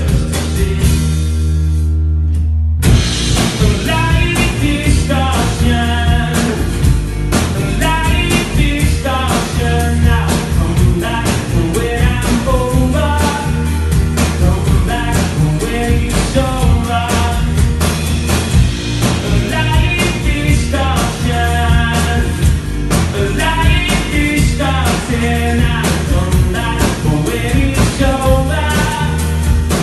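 Rock band playing an instrumental passage: a held chord, a short break about two and a half seconds in, then the full band again over a steady beat.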